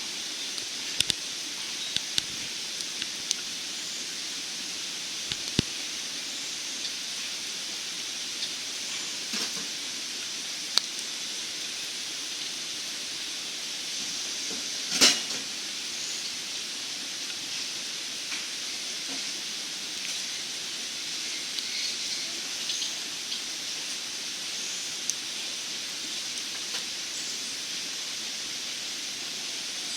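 Small wood fire burning in a backpacking wood stove: scattered crackles and one loud pop about halfway through, over a steady high hiss.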